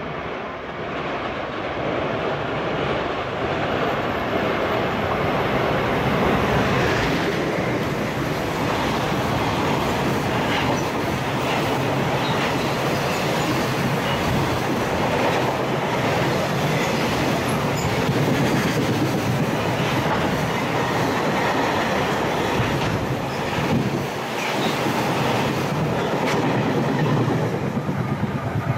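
A high-speed freight train of loaded container wagons passing close by, with the wheels clattering over the rail joints in a loud, steady run.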